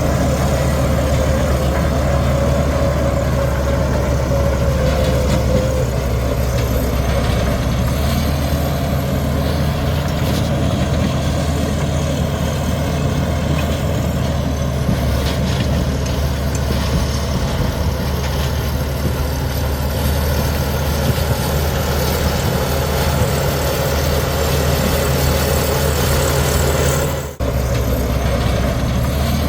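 Heavy diesel earthmoving machinery running steadily under load, with a steady deep engine note. A faint whine over it fades out about six seconds in. The sound drops out very briefly near the end.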